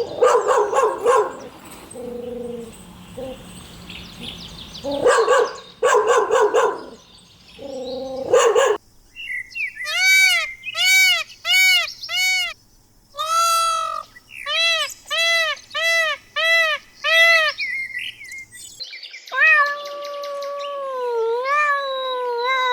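A string of domestic animal calls from separate clips: dog barking at the start and again around the middle, then runs of short rising-and-falling yelps, then a long wavering cat meow in the last few seconds.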